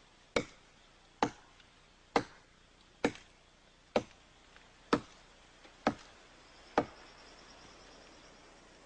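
Stone axe chopping into a small tree's trunk: eight sharp, evenly paced strokes, a little under one a second, that stop about two seconds before the end.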